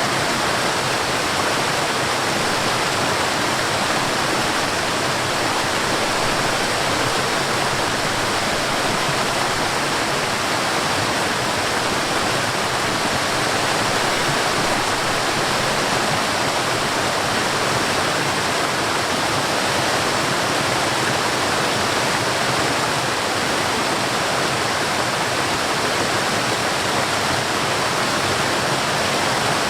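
Steady, continuous rush of water from a mountain stream and waterfall, even and unbroken throughout.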